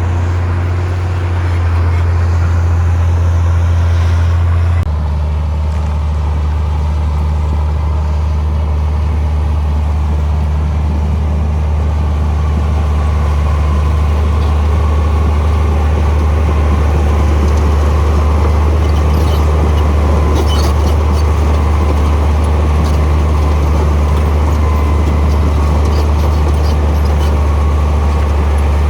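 Heavy diesel engine of earthmoving machinery running steadily, its low note shifting to a new engine speed about five seconds in. There are a few faint clanks around two-thirds of the way through.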